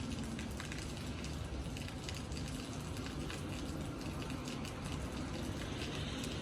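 Rain falling steadily, with scattered sharp drop ticks over a low background rumble.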